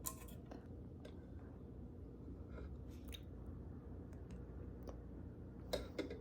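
Quiet indoor room tone with a low hum, broken by a few small clicks and taps, the sharpest just at the start and a pair near the end.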